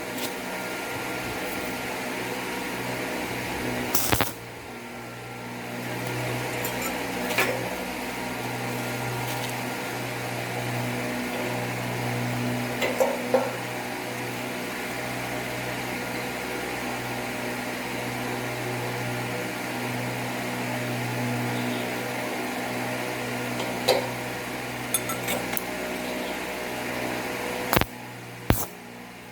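Electric motor of a homemade bench drill running steadily with a low hum, easing off briefly about four seconds in and again near the end, with a few sharp clicks and knocks.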